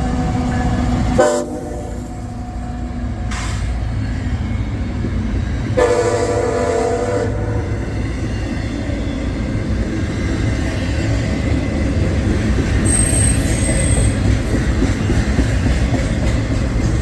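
CSX intermodal freight train's locomotive horn sounding: one blast ends about a second in, and a second blast runs from about six to seven seconds. The steady rumble of the train rolling past follows.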